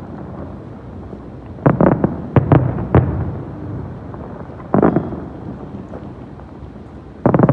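Fireworks display with aerial shells bursting in loud bangs, each trailing off in a rumbling echo. A quick cluster of about four bangs comes a couple of seconds in, a single one about five seconds in, and another near the end.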